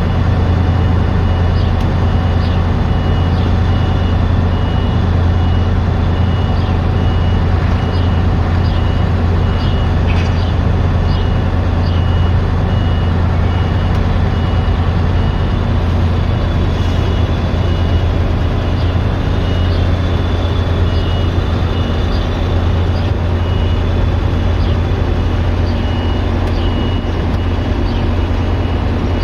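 Combine harvester running, a loud steady engine drone with a strong low hum, and a high warning beep repeating steadily over it.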